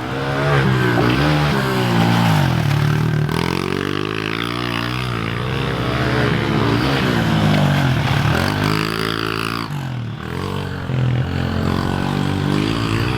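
Pit bike engine revving up and down over and over as it is ridden, its pitch rising and falling with the throttle, with a brief drop about ten seconds in.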